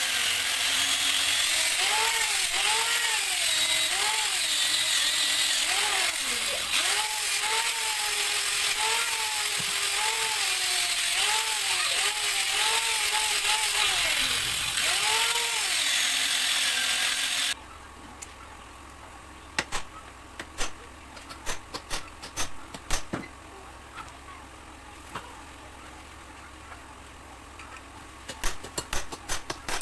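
Angle grinder grinding off the pins that hold a washing-machine motor together, its pitch rising and falling as it bites and eases. About two-thirds of the way through it cuts off suddenly, and scattered clicks and knocks of metal parts being handled follow.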